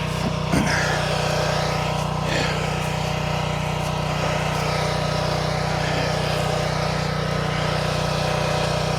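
An engine running steadily at a constant pitch, a low even drone. A few faint brushing or scraping sounds come over it in the first couple of seconds.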